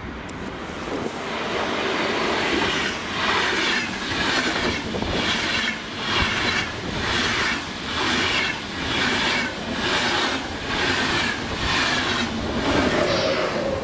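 Passenger train of Intercity coaches passing at speed on the rails, pushed by a red electric locomotive at the rear. The rush of wheels swells in over the first couple of seconds, then pulses regularly about every two-thirds of a second as bogie after bogie goes by, with a steady hum joining near the end as the locomotive passes.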